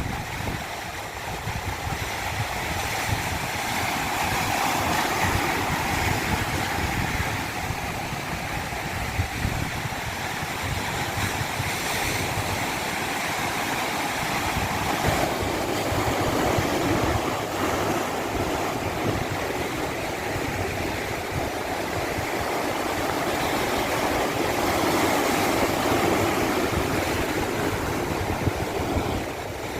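Rushing water: a steady hiss that slowly swells and eases, with an uneven low rumble beneath it.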